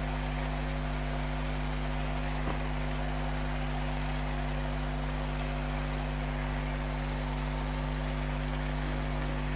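Onion and ginger-garlic masala sizzling faintly in oil in a kadai, an even hiss, under a constant low electrical hum.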